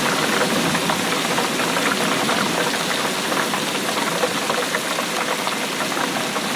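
Heavy rain falling steadily, a dense patter of drops striking a hard surface.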